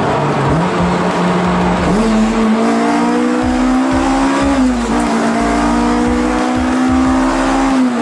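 Honda Integra Type R's K20A four-cylinder engine running under load while driving, its pitch stepping up about two seconds in, dipping briefly near the middle and dropping again at the end.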